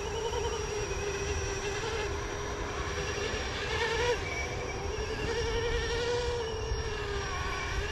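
Electric 450-size RC helicopter with a four-blade main rotor flying: a steady motor and rotor whine whose pitch wobbles rapidly up and down in a whoop-whoop pattern, which the pilot puts down to the flexible tail stabilizers vibrating.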